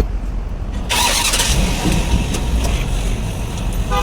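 Truck engine running with a steady low rumble; about a second in a sudden hiss breaks out and fades away over the next second.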